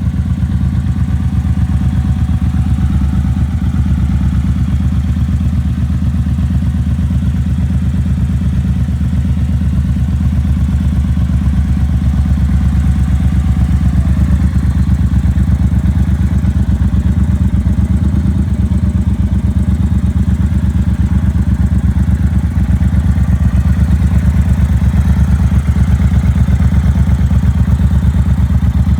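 Triumph Bonneville Bobber's 1200 cc parallel-twin engine idling steadily with an even, rapid exhaust pulse, a little louder over the last several seconds.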